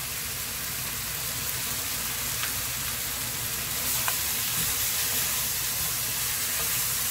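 Squid, onion and chilli in gochujang sauce sizzling steadily in a hot wok as a wooden spatula stirs them, with two faint clicks partway through.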